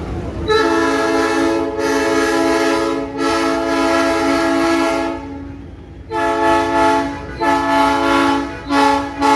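Train horn sounding a chord of several steady tones: a long blast of about four and a half seconds broken twice briefly, then after a short pause three shorter blasts.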